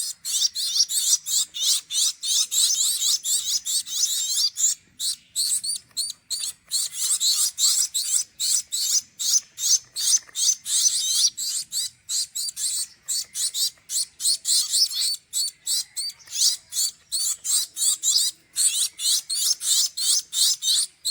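Four hand-fed fledgling birds begging for food with rapid, high, continuous chirping: the calls of hungry chicks still wanting more.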